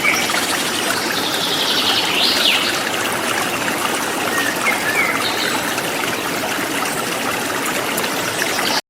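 Forest stream flowing and trickling steadily, with a few faint bird chirps. The sound cuts off abruptly near the end.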